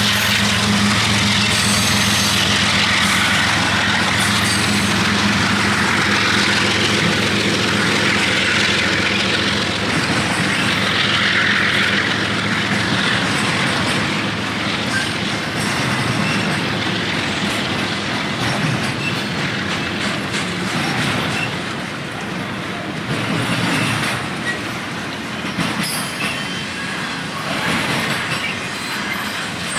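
Freight train rolling past. A diesel locomotive's engine hum is heard at first and fades out over the first ten seconds or so, leaving the steady rumble and clatter of the freight cars on the rails.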